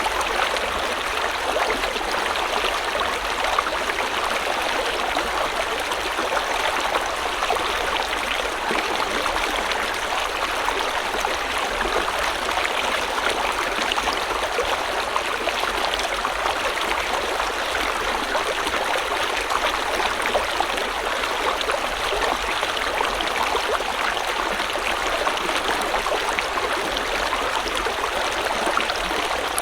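River or stream water flowing steadily, a continuous rushing and babbling.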